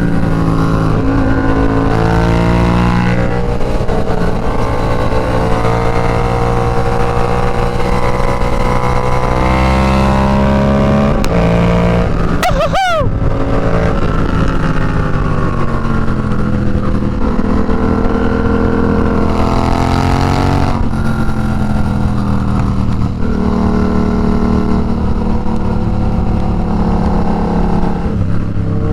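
Yamaha FZ-07 parallel-twin motorcycle engine running under way, holding steady stretches of revs and changing pitch as it moves through the gears, with a brief drop in engine sound about halfway through.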